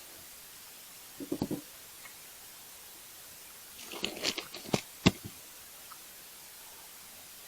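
Gear being handled: a few soft knocks about a second in, then a louder clatter about four seconds in that ends in two sharp clacks.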